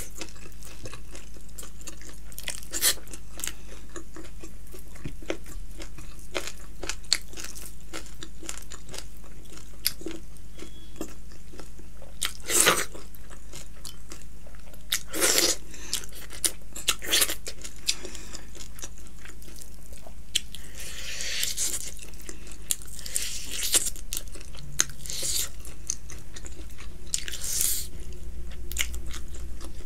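Close-miked eating: chewing and gnawing meat off a bone, with irregular sharp crunchy bites and wet mouth noises, over a steady low hum.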